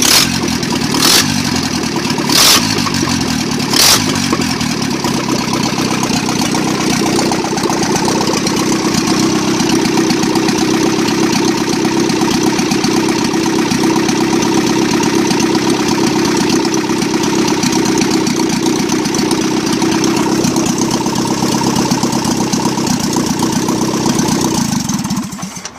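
Ford Capri Mk1's 1.5 litre V4 engine running steadily, with four sharp cracks in the first four seconds. The engine shuts off near the end.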